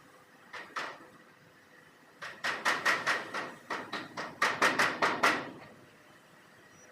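Hammer blows: two strikes, a pause, then a quick run of about a dozen strikes lasting about three seconds.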